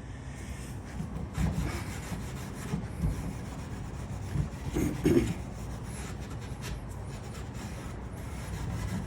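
Damp 0000 steel wool rubbing back and forth over a wood furniture finish, working refinishing liquid into the surface in repeated scrubbing strokes. A short louder sound cuts in about five seconds in.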